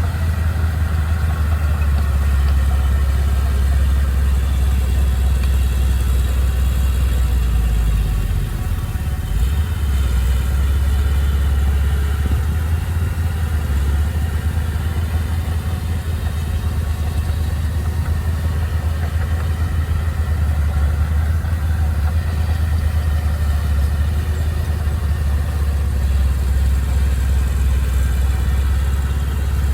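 Heavy machinery engine running steadily with a deep low drone and no clear revs.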